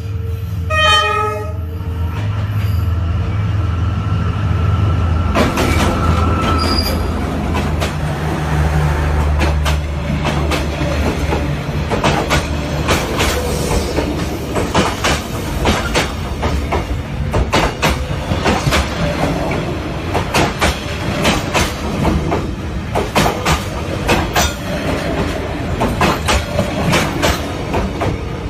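Indonesian passenger train running on the rails. A short horn blast sounds about a second in, followed by a steady rumble and repeated clacks of the wheels over rail joints, which come more often in the second half.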